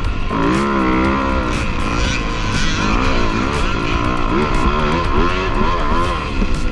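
Motocross dirt bike engines revving, the pitch rising and falling over and over as the throttle opens and closes.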